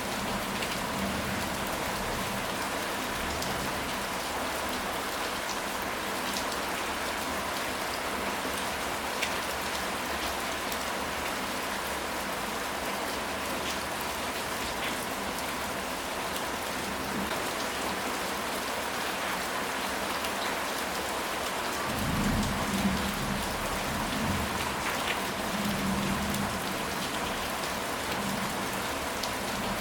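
Steady rain falling, an even hiss with scattered sharper drop ticks. About two-thirds of the way in, a low rumble of thunder swells for several seconds and fades.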